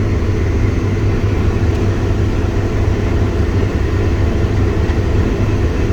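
Farm tractor engine running steadily under load, a constant low drone heard from inside the cab.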